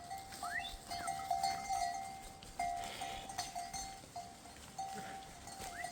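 Sheep bells ringing on a grazing flock, one clear bell tone struck over and over in quick, uneven repeats, with a few short rising calls.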